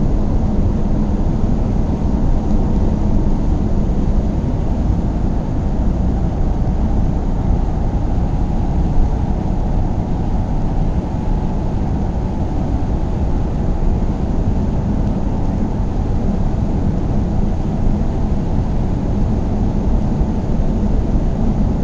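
Car driving at a steady speed: a steady low rumble of engine and road noise.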